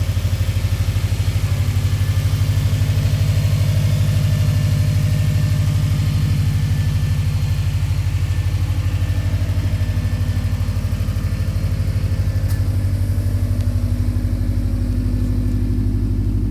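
2015 Subaru WRX STI's turbocharged flat-four engine running steadily with an even low rumble.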